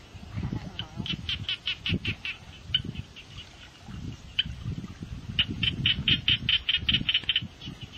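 A bird's rapid chattering call, repeated in two runs of about two seconds each with a few single calls between, over irregular low rumbles.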